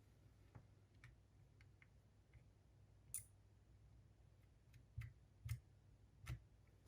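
Faint, scattered small clicks and taps of tools and small metal parts being handled on a cassette walkman's mechanism, with a sharper click about three seconds in and a few louder knocks around five to six seconds in.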